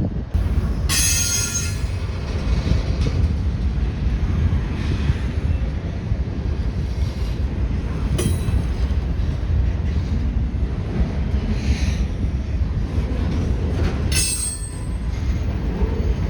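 Train cars rolling past with a steady low rumble of wheels on rail. Brief high-pitched wheel squeals come about a second in, twice around the middle and again near the end.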